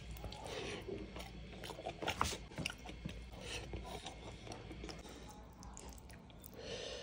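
A man chewing mouthfuls of rice and fish curry eaten by hand, with irregular wet mouth clicks and the squish of fingers working the rice.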